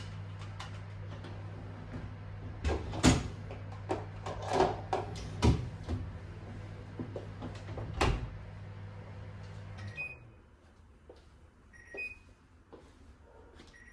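An electrical appliance hums steadily while cupboard or door knocks and clatters sound several times. The hum cuts off about ten seconds in, followed by short electronic beeps.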